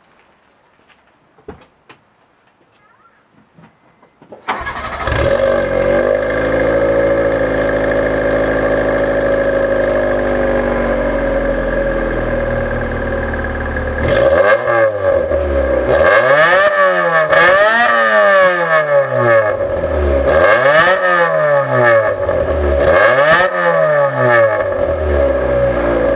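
Subaru Pleo's 660 cc four-cylinder engine starting about four and a half seconds in, settling into a steady idle, then revved up and back down about five times with no load. It runs through a Fujitsubo Legalis K muffler whose silencer internals have been removed so that it resonates, giving a high-pitched exhaust note.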